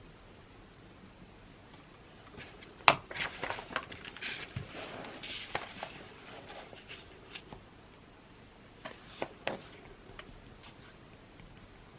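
Stationery and papers handled on a desk. A sharp knock comes about three seconds in, followed by a few seconds of rustling and light clicks. Two more taps come close together later.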